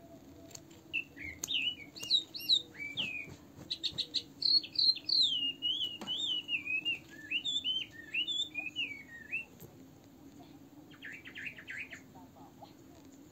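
A small songbird singing a long, varied warble of quick chirps that rise and fall, stopping about ten seconds in, then a short fast trill.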